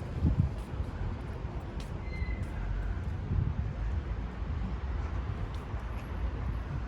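Low, steady rumble of outdoor city background noise, with no single distinct event.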